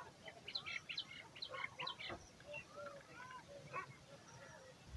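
Birds calling: a quick string of short, high chirps, some sliding up or down in pitch, busiest in the first two seconds and sparser after.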